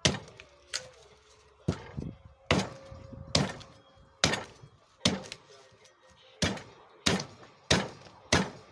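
Axe hewing a rowan burl blank: about a dozen sharp chopping strokes in a steady rhythm, each with a short ring after it.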